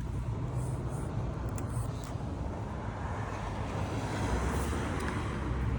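Car heard from inside the cabin: a steady low engine rumble with road noise that swells about halfway through, as when the car pulls away from a traffic light.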